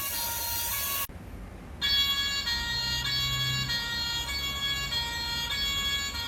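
Toy fire engine sound book playing an electronic two-tone siren, alternating high and low notes. It cuts out briefly about a second in, then starts again.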